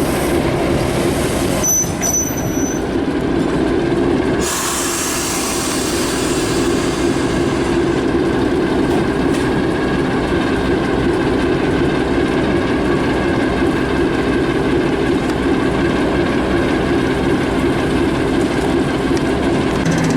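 Heritage railway train running steadily on the line, with a short high-pitched squeal about two seconds in.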